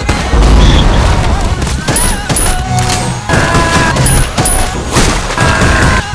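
Action-film gunfight sound mix: rapid gunfire and heavy booms, loud and dense, with repeated sharp impacts.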